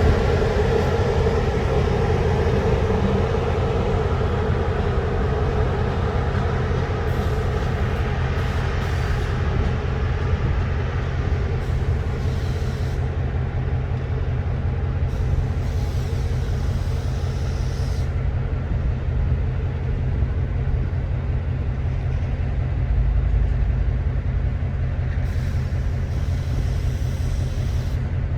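Romanian class EA electric locomotive running during shunting moves, with a steady low hum throughout. A higher tone fades away over the first few seconds.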